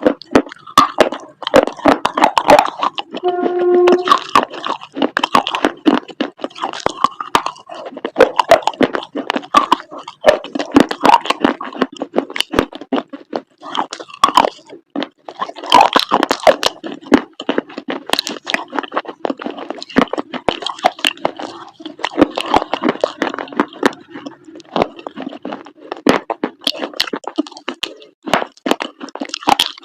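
Close-miked crunching and chewing of chalk paste: dense, irregular crisp crunches and crackles.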